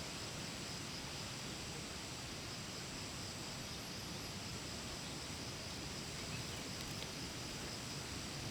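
Steady insect chorus, a constant high-pitched buzz, over a low even background hiss.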